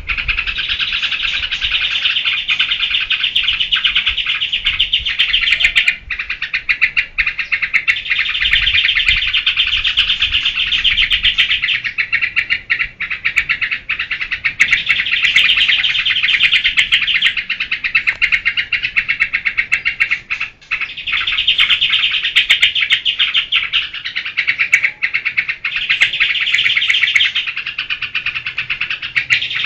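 Yellow-vented bulbul (trucukan) singing in the sustained 'geberan' style: long runs of rapid, densely packed chattering notes, broken every few seconds by brief pauses.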